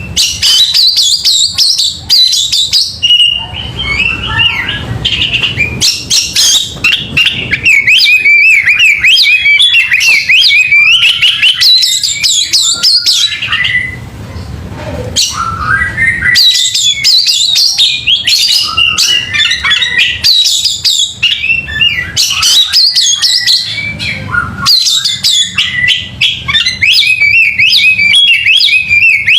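Oriental magpie-robin (kacer) singing loudly: a rapid, varied, almost unbroken stream of high chirps, whistles and trills, easing off briefly about halfway through.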